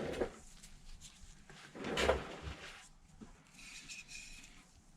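Tesa adhesive tape being pulled off its roll, a short crackling rip about two seconds in, with light handling noise around it.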